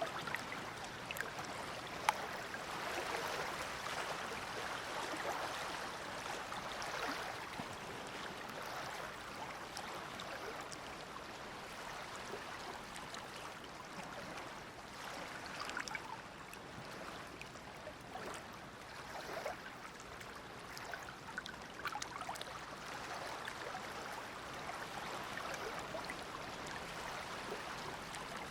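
Small waves of the Dead Sea lapping and splashing at the shore: a steady wash of water that swells and eases, with one sharp click about two seconds in.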